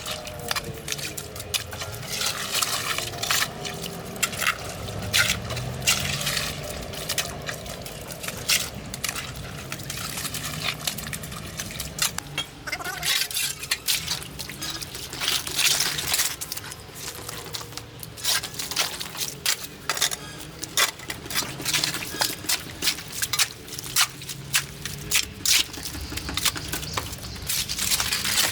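Water splashing and dripping, with a steady run of small clicks and knocks throughout.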